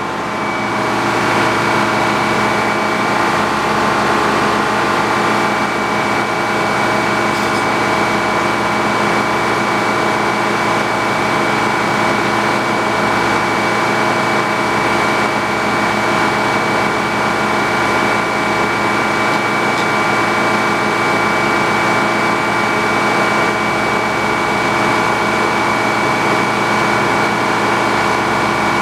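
A sawmill's engine running steadily at constant speed, with a steady whine on top and no change in pitch or loudness.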